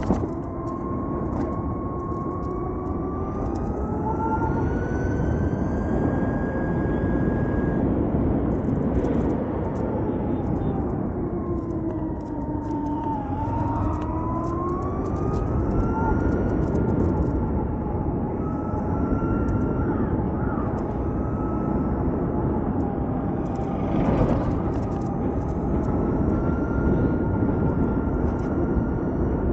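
Ather 450X electric scooter riding, its motor whine rising and falling in pitch with speed, dipping lowest about halfway through, over steady wind and road noise.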